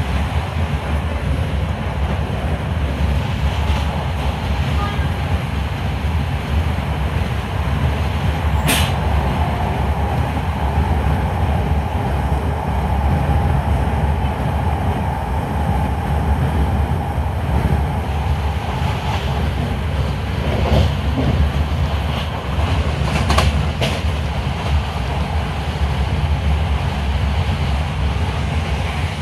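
Class 323 electric multiple unit running at speed, heard inside the passenger saloon: a steady low rumble of wheels on rail. A few sharp clicks stand out, one about nine seconds in and two close together about three-quarters of the way through.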